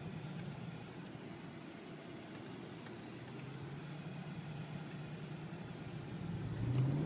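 Supercharged AMG 5.5-litre V8 of a Mercedes E-class estate converted to run on LPG, heard from inside the car and running steadily at low revs. Near the end the engine note climbs in pitch and grows louder as it starts to accelerate hard.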